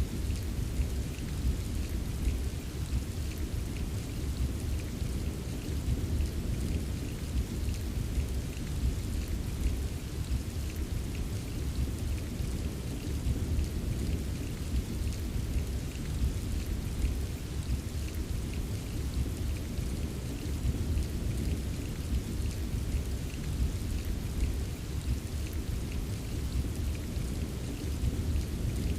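Steady rain with light ticks of individual drops, over a low continuous rumble of distant rolling thunder.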